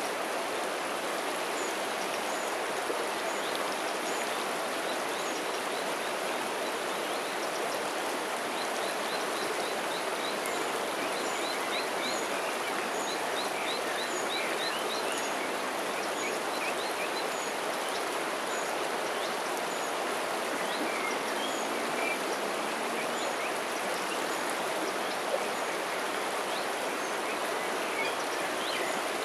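River water flowing steadily, with small birds chirping high above it, including a quick run of short calls in the middle.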